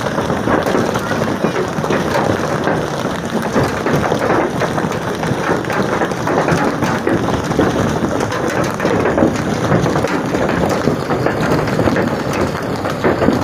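Hailstones pelting down in a heavy hailstorm: a loud, steady, dense clatter of countless small impacts.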